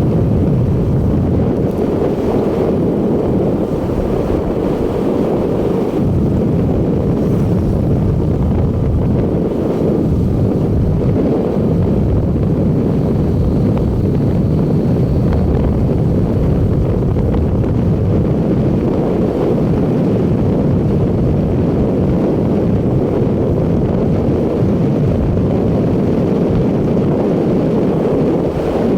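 Loud, steady wind noise buffeting the microphone on a moving motorcycle, with the ride's engine and road noise mixed into the low rumble.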